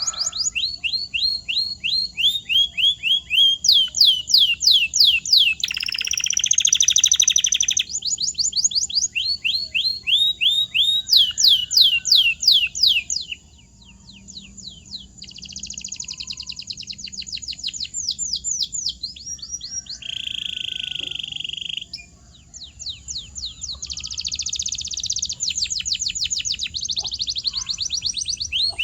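Domestic canary singing a long rolling song: runs of fast, repeated high downward-sweeping notes, each run at its own speed. A buzzy trill comes about six seconds in and a steadier held note around twenty seconds in, with brief pauses between phrases.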